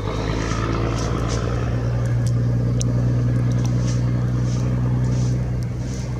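Heavy diesel engine of a snow-removal truck or loader running steadily with a low, even drone, swelling a little after the first second and easing slightly near the end.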